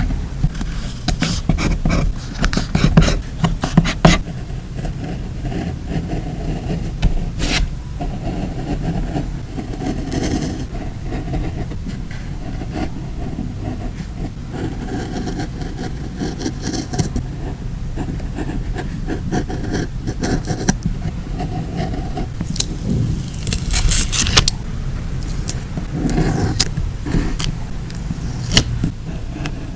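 Journal-making handling sounds: stickers and paper being peeled, rubbed and smoothed down, with scraping, rustling and scattered small clicks and taps over a steady low background hum.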